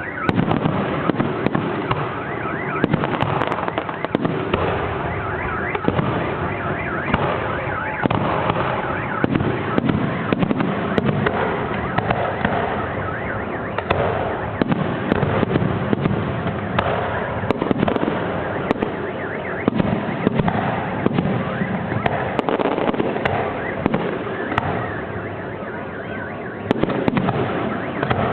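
Fireworks display going off without a break: a dense run of bangs and crackling salvos.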